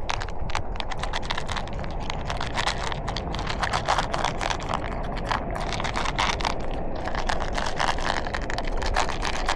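Toy RC car driving along with dense, rapid, irregular clicking and rattling over a steady low rumble.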